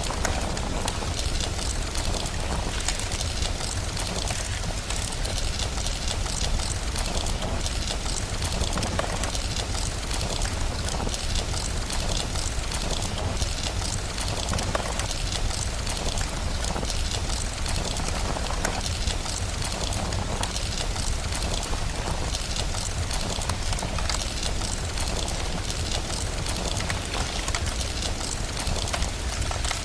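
Steady rain, an even dense hiss, with a fireplace crackling throughout in fine, irregular clicks.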